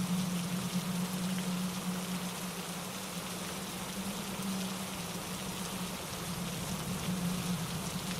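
Steady rain falling through trees, mixed with wind in the leaves and pine needles and a mountain stream tumbling over rocks, with a constant low rumble beneath. The whole wash eases a little toward the middle.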